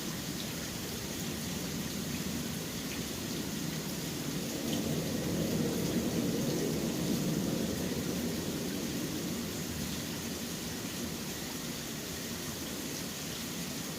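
Steady rain falling in a city, an even hiss with faint scattered drop ticks. A low rumble swells and fades again about halfway through.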